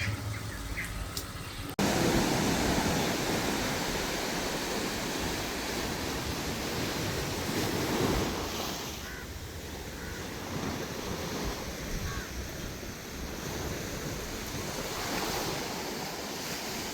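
Sea surf washing in with a steady rush that swells and eases, mixed with wind, starting abruptly about two seconds in after a quieter, humming sound.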